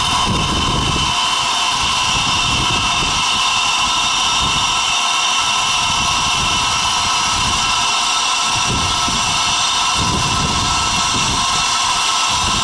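NG G16 Garratt steam locomotive hissing steadily with steam, with an uneven low rumble underneath as it moves off.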